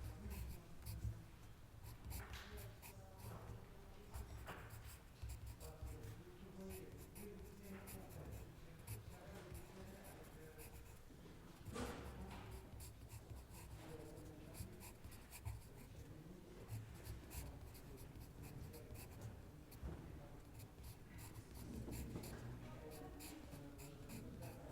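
Library ambience: pens or pencils scratching on paper, with scattered small clicks and rustles, over a steady low rumble and a faint murmur of hushed voices.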